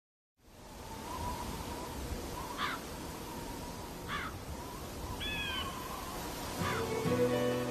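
Bird calls over a steady rushing background: a few short falling calls and one call of several tones, then acoustic guitar music comes in near the end.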